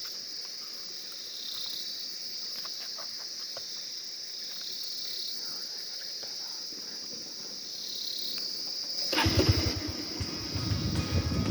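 Steady high-pitched insect chorus trilling, in the manner of crickets or cicadas. About nine seconds in, a much louder sound with a low rumble cuts in over it.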